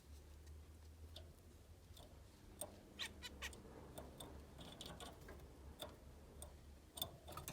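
Faint canary sounds, short chirps and cheeps with scattered small clicks, over a low steady hum. They grow busier a couple of seconds in.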